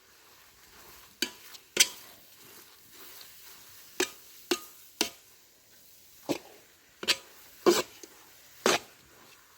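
A cooking utensil knocking and scraping against a pot or bowl in stirring or mixing, about nine sharp, irregular knocks, over a faint steady hiss.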